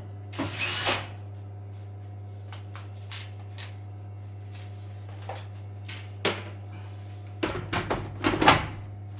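Washing machine's body and panels being handled: a string of irregular knocks and clunks, the loudest cluster near the end, over a steady low hum.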